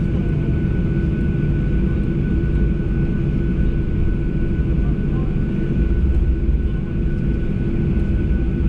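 Boeing 737 jet engines running steadily, heard inside the passenger cabin as a constant deep rumble with a thin steady whine above it.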